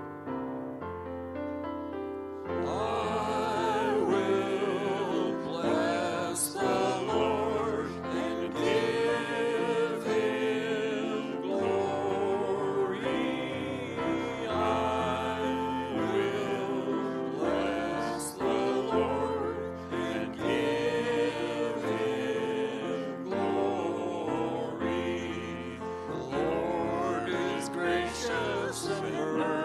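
Worship music: keyboard playing alone, then voices start singing with the keyboard about two and a half seconds in.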